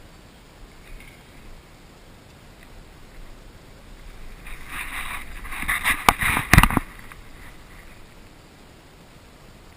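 Rustling that builds for about two seconds, with a few sharp clicks, the loudest just before it stops suddenly.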